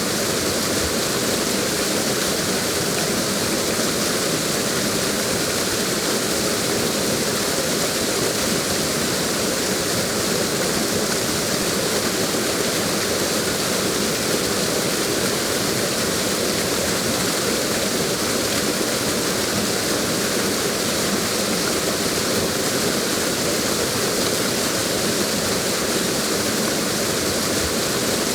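Waterfall ambience: a steady, unbroken rush of falling water.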